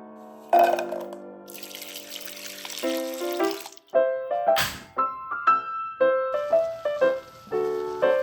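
Water running from a tap for about two seconds, with a short burst of noise about four and a half seconds in and fainter running water near the end, under background music with a plucked melody.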